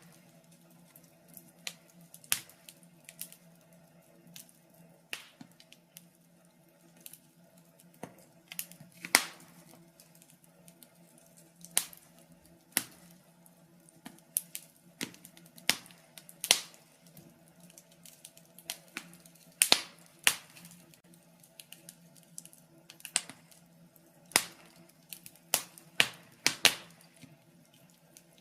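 Wood fire crackling in a fireplace: irregular sharp pops and snaps, one every half second to two seconds, some much louder than others.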